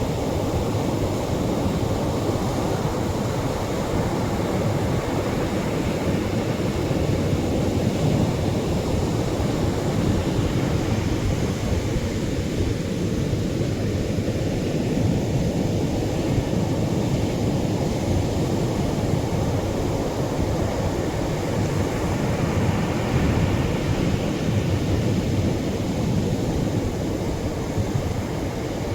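Atlantic waves breaking on the shore, heard as a steady low rush of surf with only gentle swells in level.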